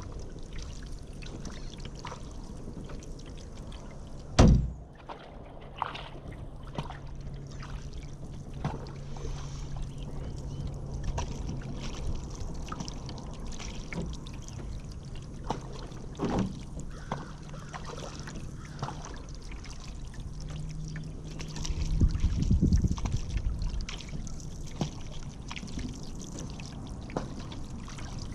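Kayak paddle strokes, with water pouring and dripping off the paddle blades and small splashes. About four seconds in there is a single loud, sharp knock, and near the end a brief low rumble.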